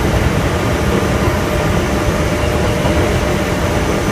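Kintetsu 1000 series electric train running, heard from inside the passenger car: a steady rumble of wheels and running gear with a faint steady whine over it.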